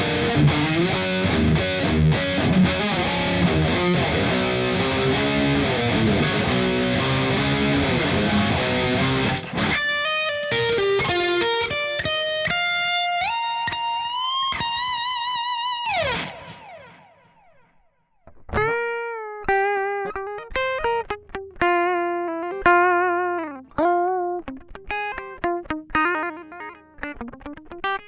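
Electric guitar played with bare fingers, no pick: first a dense, distorted, effects-processed amp tone, which moves into long held notes with vibrato before dying away about two-thirds through. After a short gap, the dry direct guitar signal follows as separate plucked notes that decay quickly.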